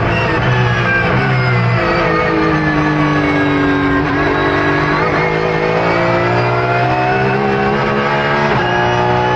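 Racing car engine, its pitch falling over the first few seconds, then climbing steadily from about five seconds in until a sudden drop near the end, as at a gear change. Music plays along with it.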